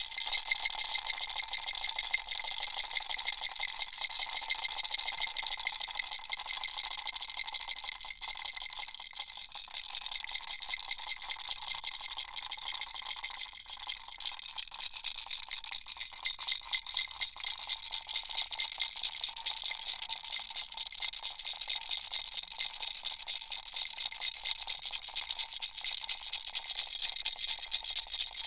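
Baby rattle shaken continuously: a dense, fast, even rattle of small beads, with a faint ringing note under it.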